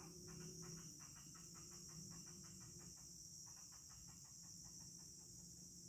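A rapid trill of clicking pulses, roughly ten a second, coming in bouts of one to three seconds with short gaps, over a steady high-pitched insect drone; the hunter names it the call of a wild cat (kucing hutan).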